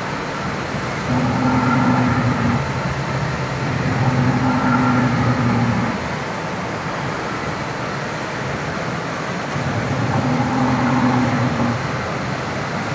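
Animatronic dinosaur display's recorded calls played over loudspeakers: three low, held calls of about one and a half to two seconds each, about a second in, about four seconds in and near the end, over a steady background noise.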